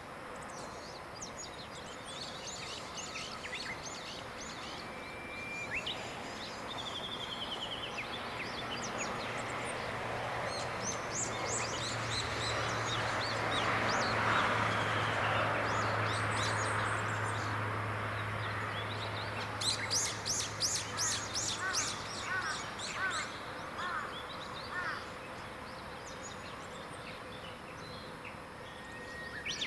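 Several wild birds singing and calling, with a quick run of chirps about two-thirds of the way in. Under them, the low hum of a distant engine swells and fades away over about a dozen seconds.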